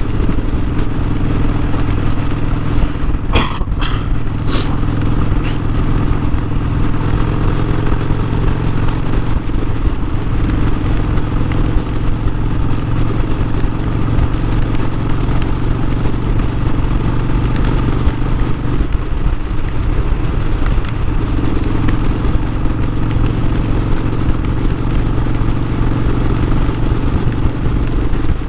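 Harley-Davidson Sportster 1200's air-cooled V-twin engine running under way, its note shifting in pitch a couple of times. A few sharp clicks sound a few seconds in.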